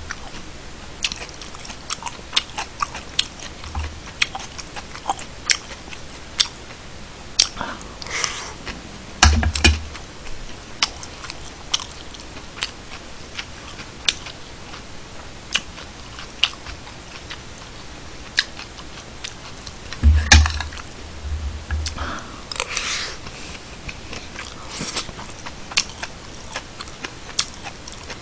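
Close-miked chewing of a mouthful of kimchi fried rice, with sharp clicks of a metal spoon against a ceramic bowl throughout. Two dull thumps come about nine and twenty seconds in.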